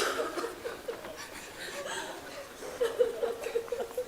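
A man's voice choked with emotion: short, halting, wavering sobbing sounds instead of words.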